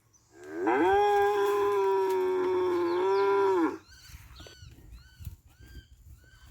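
A cow moos once, one long steady call of about three seconds. After it, a bird chirps over and over in short rising-and-falling notes.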